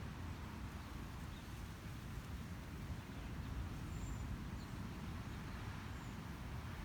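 Outdoor ambience: a steady low rumble with a few faint, short, high bird calls.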